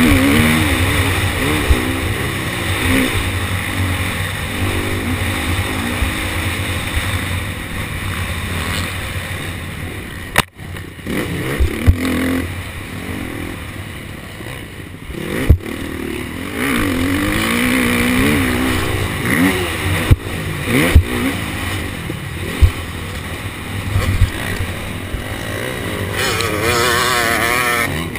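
KTM 250 SX-F motocross bike's four-stroke single-cylinder engine revving up and down with throttle and gear changes, with several sharp knocks along the way, the loudest about fifteen and a half seconds in and around twenty-one seconds.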